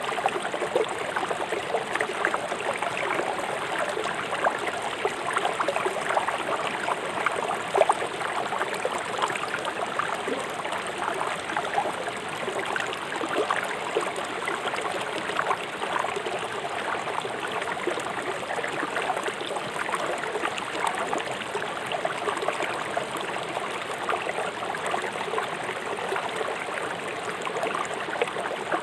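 River water flowing fast over stream rocks: a steady rushing with constant splashing and gurgling.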